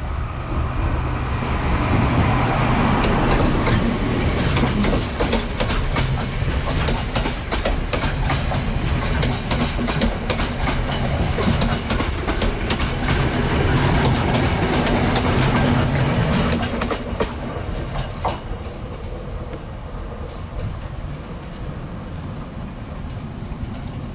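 Diesel train passing close by, its wheels clacking over the rail joints over a low engine hum, then fading away after about 17 seconds.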